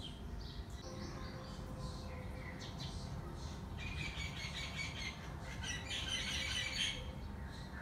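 Small birds chirping, with two rapid trills, one about four seconds in and a louder one about six seconds in, over a faint steady low background noise.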